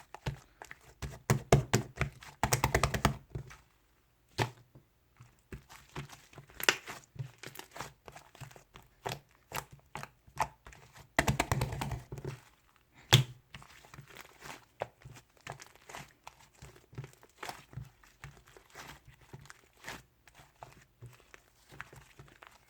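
Irregular clicks, knocks and crinkling, with two runs of rapid clicking, one near the start and one about halfway through, and a single sharp knock just after the second run.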